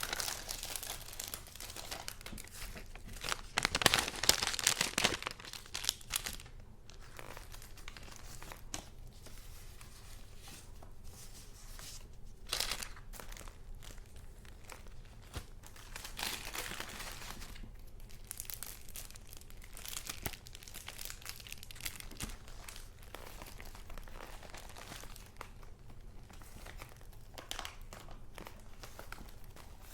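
Paper and plastic sleeves being handled: rustling, crinkling and sliding as sheets and pages are turned over, loudest for a couple of seconds near the start, then in smaller flurries.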